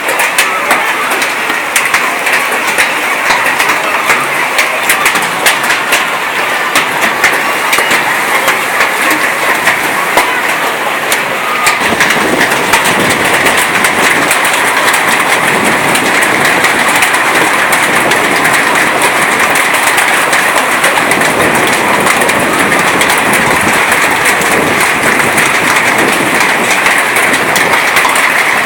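Heavy rain pouring, a dense steady hiss full of sharp drop ticks, growing a little louder about twelve seconds in.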